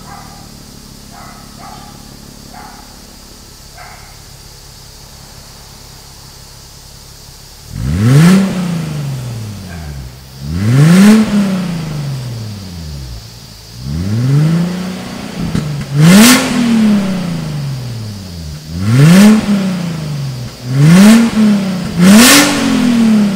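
Infiniti FX35's 3.5-litre V6 idling through an aftermarket valved exhaust with an X-pipe and twin tips. After about eight seconds the throttle is blipped seven times: each rev rises sharply and falls back to idle.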